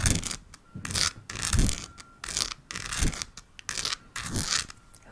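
Close-miked scratching and crinkling in short bursts, each with a soft thump, repeating roughly once a second.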